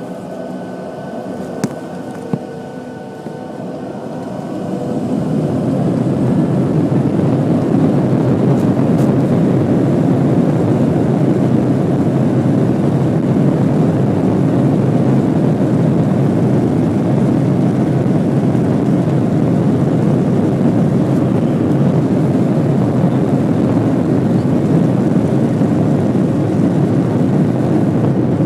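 Boeing 737-700's CFM56-7B jet engines heard from inside the cabin, spooling up to takeoff thrust about four to six seconds in, then a loud, steady engine and rolling noise through the takeoff run. Before the spool-up, two short clicks sound over the lower steady engine whine.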